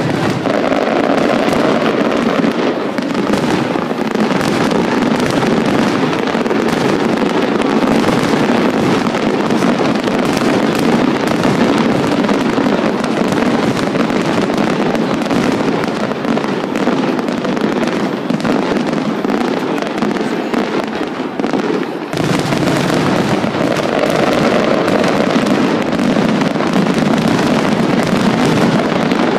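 Aerial fireworks display: a dense, continuous barrage of bursts and crackling with no pause, dipping briefly about two-thirds of the way through before building again.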